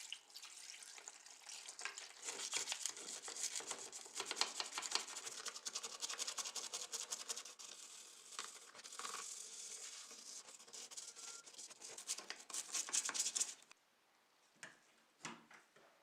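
Rapid scrubbing: many quick, short rubbing strokes against a surface that run on steadily, then stop abruptly about 13 seconds in. A few light clicks follow.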